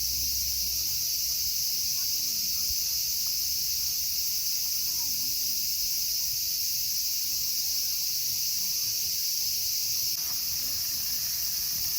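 Steady chorus of singing insects: a continuous high-pitched trill that holds throughout.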